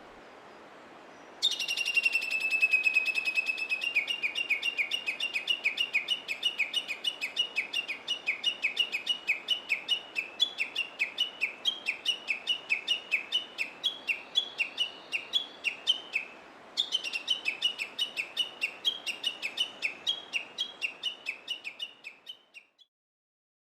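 A male Japanese bush warbler (uguisu) gives its warning call twice. Each call is a long drawn-out whistle followed by a long run of quick repeated notes, about four a second. The male gives this call to warn the female on the nest when an enemy such as a crow appears.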